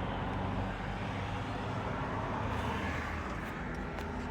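Steady background noise of distant road traffic: an even low rumble and hiss with no single event standing out.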